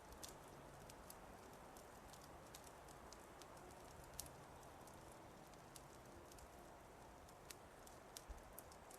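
Faint wood fire crackling in a fireplace: irregular sharp pops and snaps about once a second over a soft steady hiss, the loudest pop about four seconds in.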